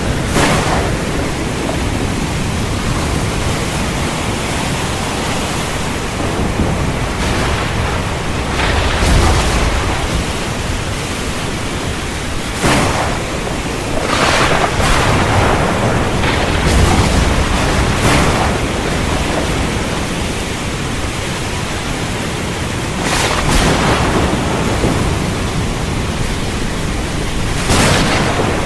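Heavy rain falling steadily through a thunderstorm. About seven sharp thunder cracks cut through it, and deep thunder rumbles swell up about a third of the way in and again just past the middle.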